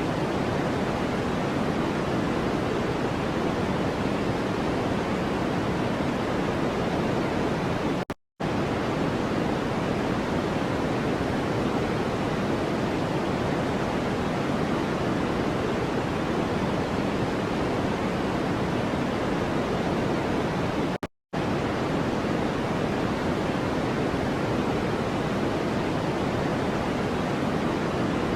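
Steady, even hiss of a continuous noise track, weighted toward the lower middle like pink noise rather than bright white noise. Twice, about eight and twenty-one seconds in, it cuts out to silence for a split second and comes straight back.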